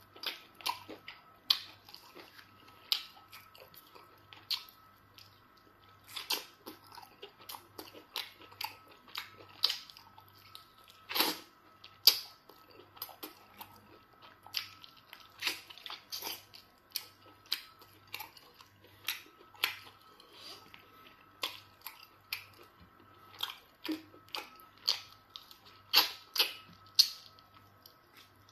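Close-miked eating sounds of pounded yam fufu and soup eaten by hand: wet chewing and lip smacks with sharp clicks every second or so, the loudest about eleven seconds in. A faint steady hum runs underneath.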